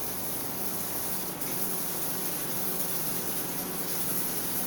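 Running water hissing steadily, as it pours over a rooster during a bath.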